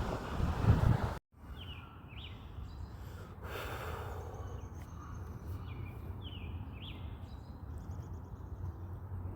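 A loud low rumble of noise that cuts off sharply about a second in. Then birds calling in short descending chirps, several in pairs, over a steady low outdoor rumble.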